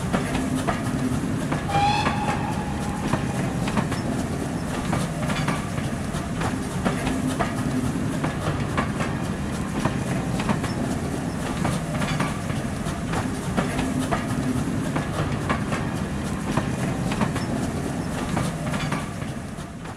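A train running on rails: a steady rumble with repeated clickety-clack of wheels passing over rail joints, and a brief rising horn-like tone about two seconds in.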